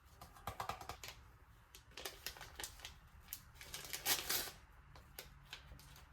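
Small clicks, taps and clinks of kitchen utensils and containers being handled, with a short, louder burst of noise about four seconds in.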